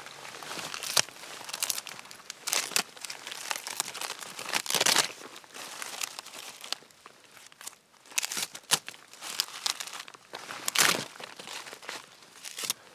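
Birch bark being peeled and torn from a fallen birch tree: dry crinkling and tearing in irregular pulls and crackles.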